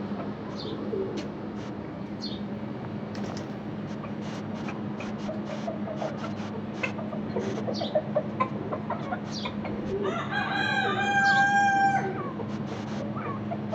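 A rooster crows once, a long held call about ten seconds in, the loudest sound here. Short high chirps from small birds and low clucking calls go on around it, over a steady low hum.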